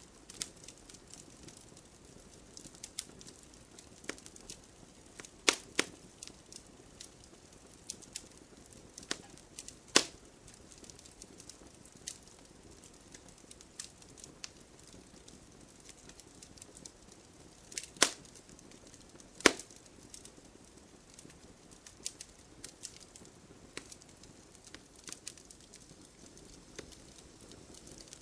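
Wood fire burning in a fireplace: irregular crackles and sharp pops over a low hiss, with a few louder pops, about five and a half, ten, eighteen and nineteen and a half seconds in.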